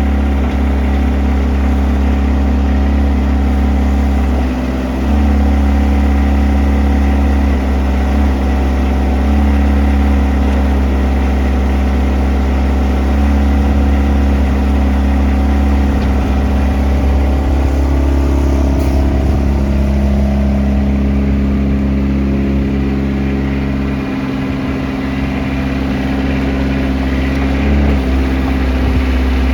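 Daewoo excavator's diesel engine running steadily, its note stepping up and down several times as it works.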